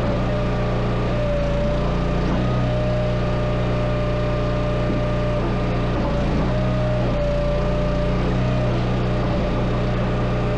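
Tractor engine running steadily at a constant speed, a steady hum with no revving.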